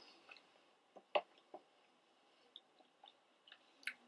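Faint chewing of a chicken nugget, with scattered short wet mouth clicks; the loudest comes about a second in.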